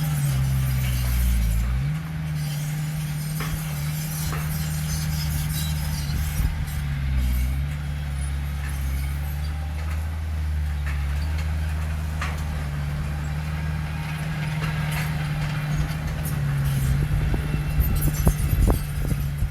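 Heavy diesel engine of earthmoving machinery running steadily under load, its pitch dipping briefly a few times. A cluster of metallic knocks and clanks comes near the end.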